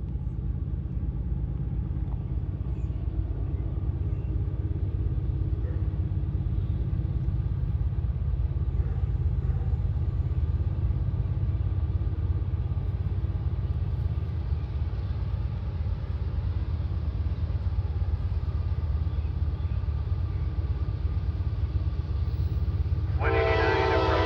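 Diesel locomotives of a Norfolk Southern freight train rumbling steadily, slowly growing louder as the train approaches. About a second before the end the locomotive's air horn starts to blow.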